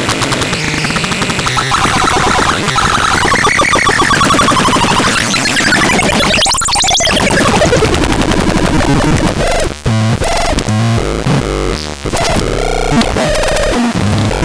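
The TADRALAN NT 202 making harsh, chaotic electronic synth noise: warbling, sweeping pitch glides and a falling sweep partway through, breaking into choppy stuttering with brief dropouts near the end.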